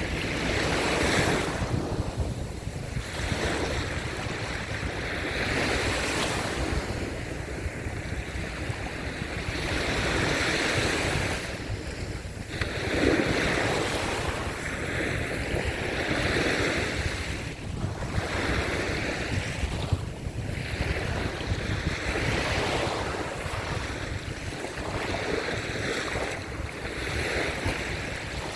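Small waves breaking and washing up a sandy beach, swelling and ebbing every few seconds, with wind rumbling on the microphone.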